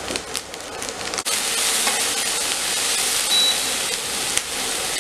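Chicken pieces with chopped onion and capsicum sizzling as they fry and are stirred in a hot pan. A few light clicks in the first second, then the sizzle grows louder about a second in.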